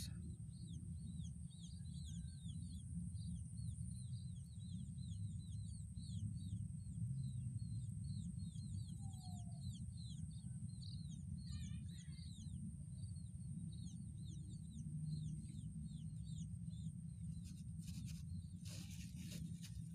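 Rural paddy-field ambience: a small bird chirping over and over, about two short falling notes a second, over a steady high whine and a low rumble. A few brief rustles come near the end.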